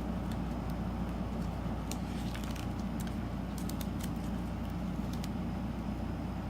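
Scattered light clicks and crackles of craft materials being handled, over a steady low hum.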